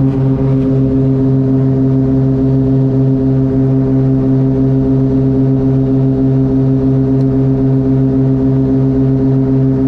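Cessna 402's twin turbocharged flat-six piston engines and propellers running at a steady speed, heard from the cockpit as a loud, even, droning hum with a fluttering rumble underneath.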